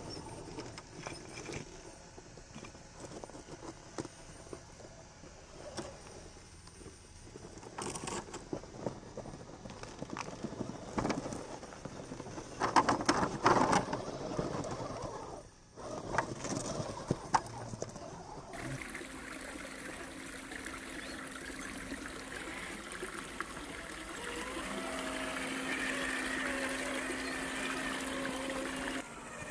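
Scale RC trucks working over rough ground: irregular crunching and clattering of tyres and chassis on rocks and gravel, with louder clusters. After a cut, a steadier run with a faint electric motor whine.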